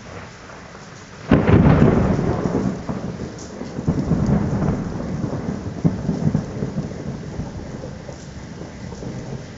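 Close thunderclap from a nearby lightning strike: a sudden sharp crack about a second in, then rolling rumbles that swell again a few times and slowly die away, over steady rain.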